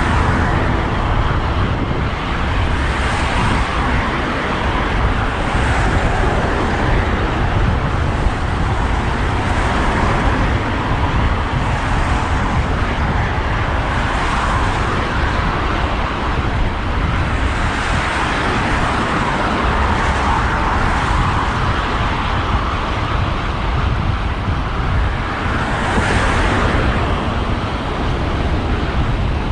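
Road traffic heard from a moving bicycle: a steady low rumble with cars swelling up and passing every few seconds.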